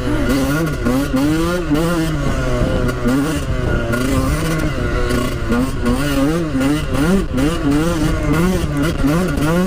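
Small two-stroke dirt bike engine being ridden hard, revving up and down over and over so that its pitch rises and falls about once a second, with a steady low rumble underneath.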